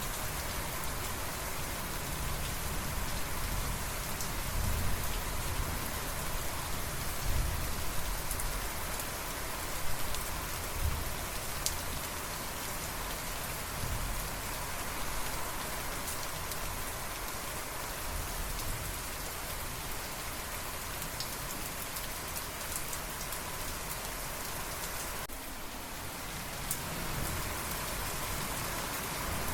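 Steady rain falling: a dense, even hiss with scattered individual drops ticking.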